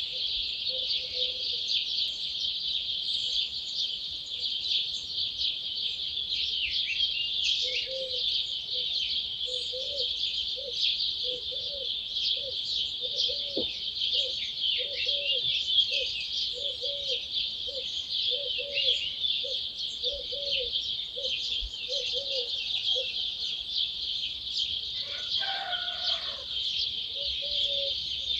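A dense dawn chorus of many songbirds singing and chirping at once, thick and unbroken. Through the middle a lower call repeats a short note about twice a second, and a brief, lower, falling call comes near the end.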